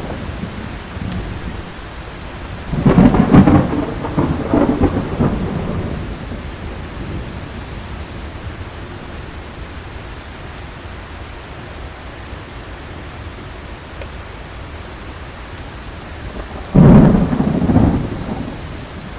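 Thunderstorm: heavy rain hissing steadily, with thunder rumbling loudly twice, about three seconds in and again near the end.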